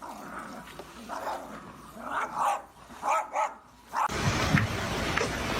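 A dog giving a few short barks, spaced about a second apart; near the end a steady hiss of background noise takes over.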